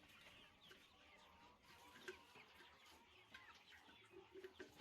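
Very faint chickens in the background, with scattered short chirps and clucks, and one soft tap about two seconds in.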